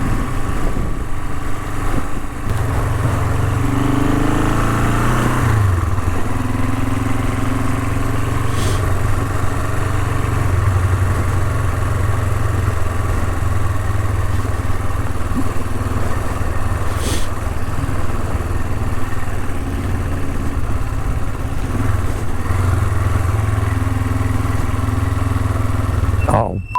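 Honda CL450 parallel-twin motorcycle engine running on a dirt trail, revving up several seconds in and then holding a steady note. It cuts off suddenly at the very end.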